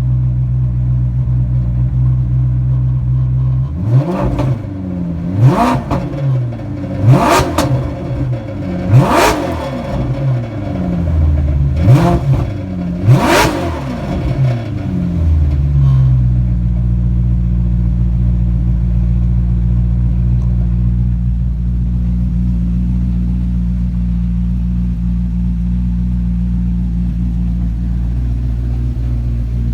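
2006 Maserati's V8 engine idling, then blipped about six times in quick succession, each rev rising and falling in pitch, before it settles back to a steady idle.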